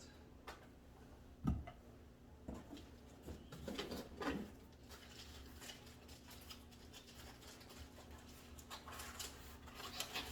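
Packaging and plastic vacuum parts being handled: a few sharp clicks and knocks, the loudest about a second and a half in, with stretches of crinkly rustling around the middle and again near the end.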